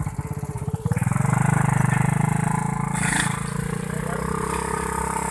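Small motorcycle engine idling with a fast even putter, then revved up about a second in and held at high revs, dropping back slightly partway through.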